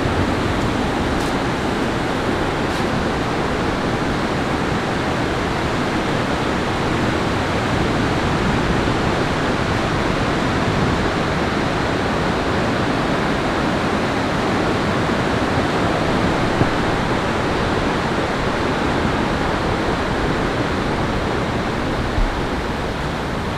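Steady, unbroken rush of falling water from the rainstorm, loud and even throughout, with a couple of faint ticks about a second and three seconds in.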